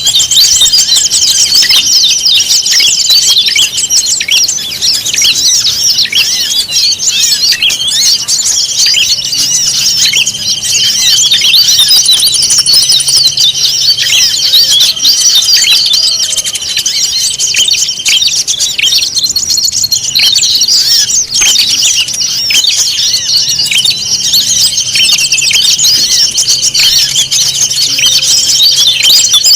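Dense chorus of many small songbirds chattering and chirping at once, a mixed bird-lure recording of the kind used to draw wild birds in. A steady high tone runs underneath and drops out for a few seconds in the middle.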